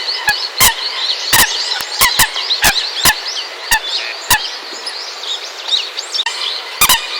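A group of common coots calling: many short chirping calls overlapping, with sharp clicks at irregular intervals.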